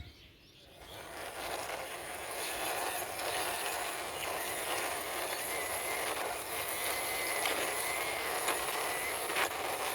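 Plastic wheels of a toy army tanker truck rolling as it is pushed by hand across a surface: a steady rolling hiss that builds up over the first second or so.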